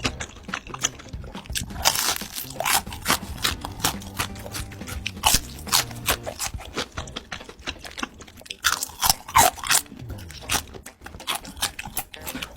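Crunchy food being bitten and chewed close to the microphone, a dense run of crisp crackles. Louder bursts of crunching come about two seconds in and again around nine seconds.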